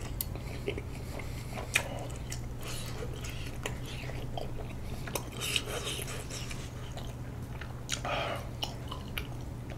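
Close-miked chewing of a soft, sticky half-moon rice cake (bandal-tteok): scattered wet mouth clicks and smacks.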